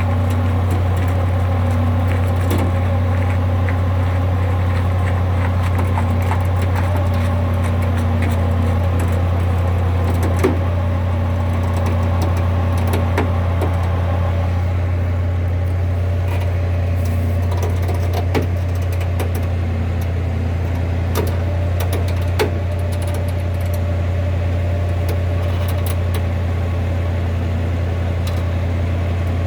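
Tow truck engine running steadily with a low drone, and a few sharp clicks or clanks scattered through.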